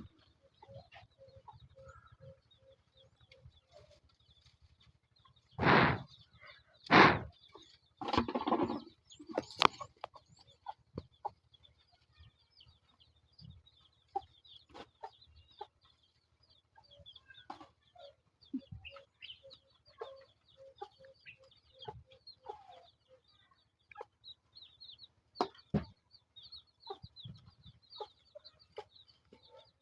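Chickens clucking, with a run of quick, evenly spaced low clucks near the start and again about twenty seconds in, and faint high chirps. Three loud noises come between about six and nine seconds in.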